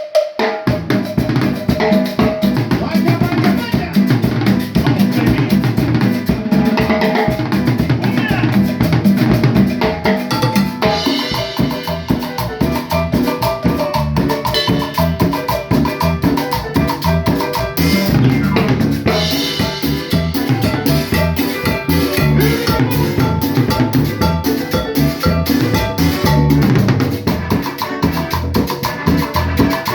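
Cumbia band playing a kumbia lagunera tune, with a driving drum kit and percussion under the melody, starting right after a cue.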